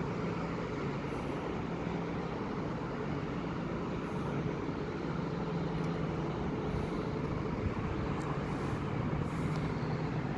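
Steady drone of a medical helicopter's engine running on the landing pad, a constant low hum under an even rush of noise.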